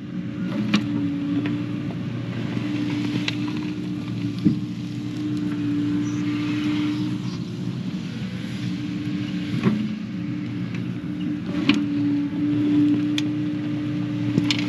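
Diesel engine of a Kubota KX080 excavator running steadily while digging, with sharp clanks every few seconds from the bucket and linkage.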